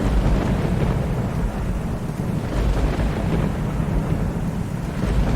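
Thunder rumbling low and continuously over steady rain, swelling in loudness several times.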